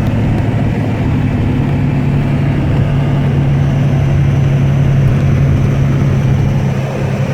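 Snow plow truck's engine and road noise heard from inside the cab: a steady low drone that holds level throughout.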